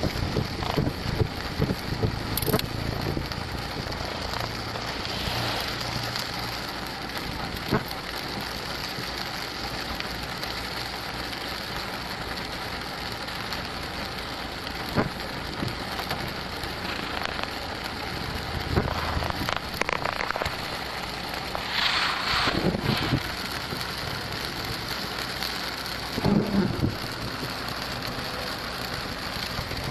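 Heavy tropical rain pouring down on a car, heard from inside the cabin, with strong wind. A steady rush of noise, broken by a few short louder knocks and a brief louder swish about two-thirds of the way through.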